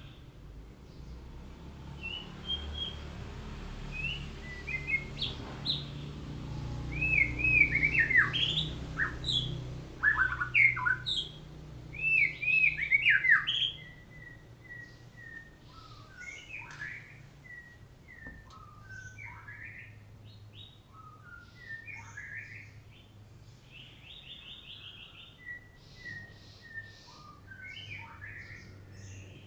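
Golden shama, a colour form of the white-rumped shama, singing: varied whistled phrases with quick rising and falling glides, loudest through the middle, then softer scattered short notes and chirps.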